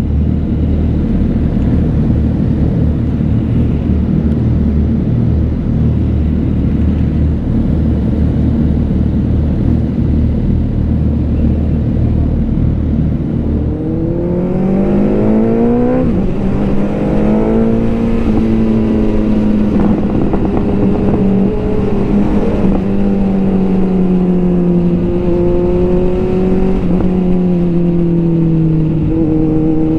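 Motorcycle engine on the move: a low rumble with wind noise for the first half, then the engine revs up with a rising pitch, drops at a gear change, climbs again and settles into a steady, slowly falling note.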